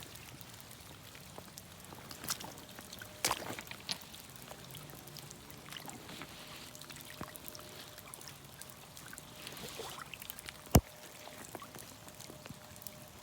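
Creek water trickling steadily, with scattered light clicks and one sharp knock near the end.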